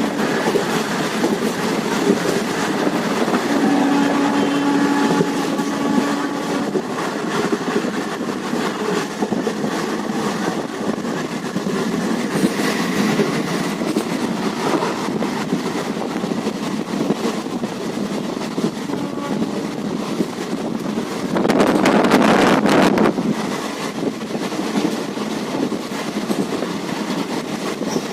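Passenger train running, heard from on board: a steady rumble and rush of wheels on rails. About 21 seconds in there is a brief louder rush lasting a second or two.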